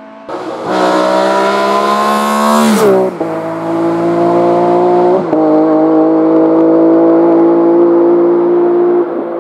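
Race car engine at full throttle, climbing in pitch and dropping sharply at upshifts about three and five seconds in, then holding high in the next gear before falling away near the end.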